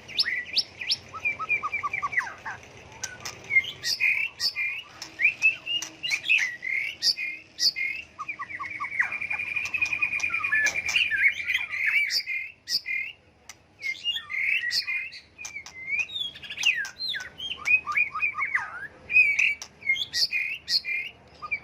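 White-rumped shama singing a varied song that keeps changing from phrase to phrase: whistles, slurred notes and sharp clicks, with a long rapid trill about halfway through.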